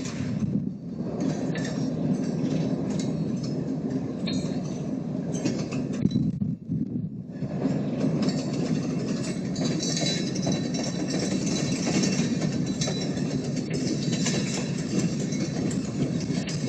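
Railroad cars rolling along the track: a steady rumble with scattered clicking of wheels over the rails.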